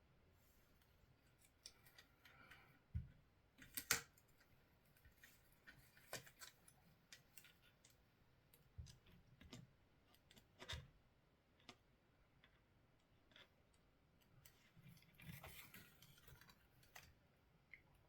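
Faint, scattered clicks and taps of small parts and tools being handled while a Xiegu X6200 transceiver is taken apart, with a few louder knocks about three to four seconds in and some soft rustling.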